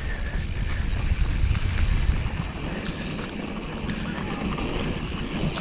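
Downhill mountain bike riding a slick, muddy trail: steady wind rush on the microphone and tyre rumble, heaviest in the first couple of seconds, with a few sharp clicks and knocks from the bike.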